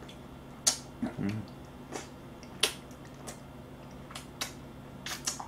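Close-miked eating sounds: a person chewing with sharp, irregular mouth clicks and smacks, about eight or nine in all. There is a brief low "mm" hum about a second in.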